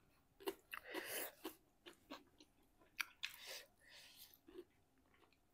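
Close-up chewing and mouth sounds from eating: a series of sharp, wet clicks and smacks, with a couple of short hissy sounds about a second in and again near the middle.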